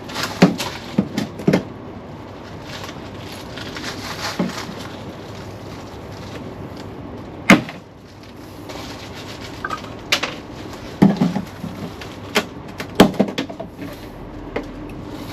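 Irregular knocks, clicks and clunks of hands working on a Mk2 Ford Fiesta's tailgate and boot trim: a few knocks in the first two seconds, one sharp knock about halfway through, and a cluster of clunks near the end.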